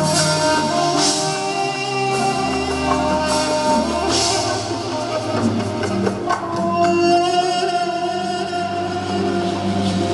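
Live band music with sustained pitched instruments and drums, cymbals crashing a couple of times.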